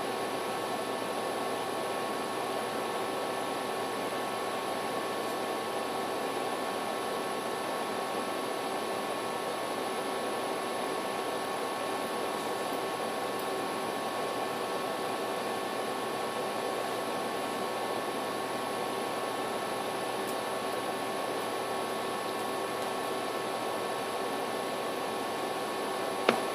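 Steady, unchanging mechanical hum and hiss with a few fixed tones, like a fan or air conditioner running, with one brief sharp knock near the end.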